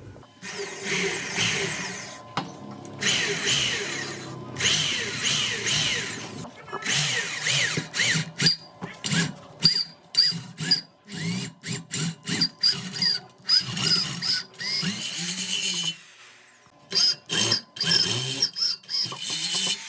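A handheld power tool running in many short bursts, starting and stopping repeatedly, its pitch rising and falling with each run.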